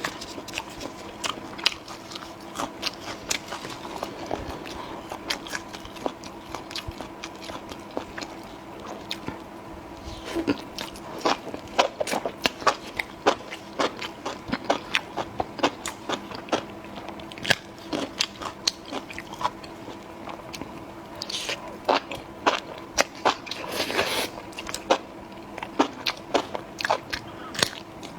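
Close-miked chewing and crunching of food: a steady run of sharp, crisp bites and mouth sounds, busier in the second half.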